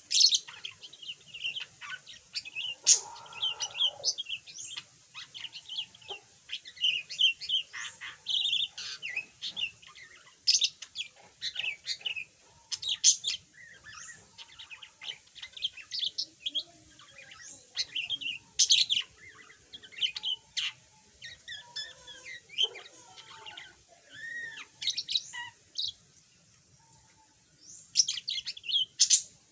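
Budgerigar chattering, with a run of quick chirps, warbles and sharp squeaky calls and a short pause near the end.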